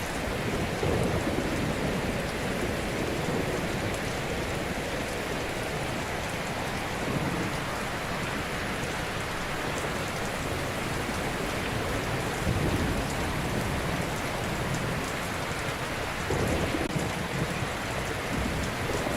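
Ocean waves breaking on a shore: a steady hiss of surf with a low rumbling swell as a wave comes in every few seconds, the strongest about a second in, about twelve seconds in and near the end.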